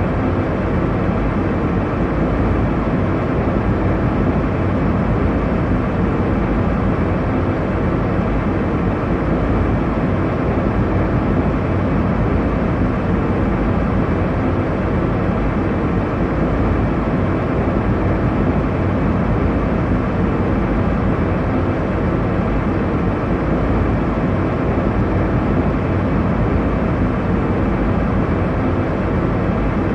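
Airliner cabin noise: a steady, deep rushing rumble that holds an even level throughout.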